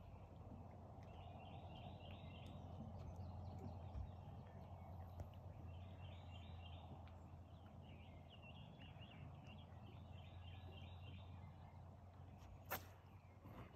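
A distant bird calling faintly in three phrases of rapid notes, about four seconds apart, over a low steady hum. A single sharp click near the end.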